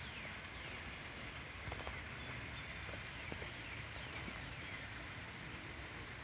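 Outdoor ambience: small birds giving short chirps that fall in pitch, a few near the start and again about four seconds in, over a steady faint hiss. A few soft clicks come in the middle.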